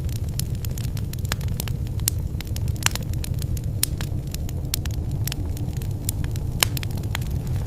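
Wood fire crackling and popping in a fireplace: a steady low rumble of burning with many irregular sharp snaps, a few louder pops among them.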